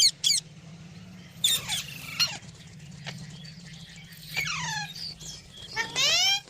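A pet green parrot calling in four short bouts of shrill, screechy calls that slide in pitch.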